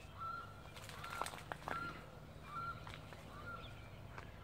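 A bird calling repeatedly: about five short, level-pitched notes roughly a second apart, some starting with a quick upward hook. A few sharp clicks and rustles fall among the first notes.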